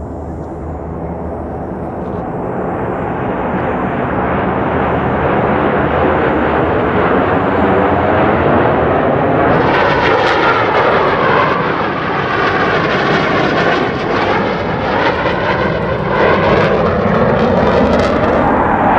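Blue Angels F/A-18 Super Hornet jet engine noise, growing louder over the first several seconds as the aircraft approaches. It then stays loud through a close pass, its tone sweeping and phasing through the second half.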